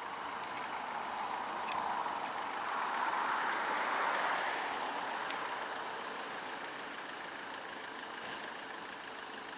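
A road vehicle passing, its engine and tyre noise swelling to a peak about four seconds in and then fading away.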